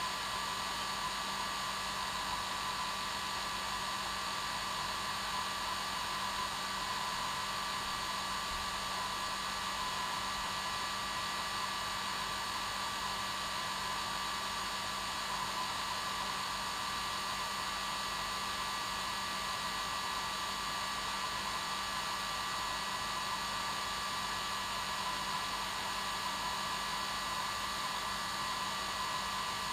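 Hair dryer running steadily on its normal setting, a constant whir with a steady whine near the top and a low hum underneath.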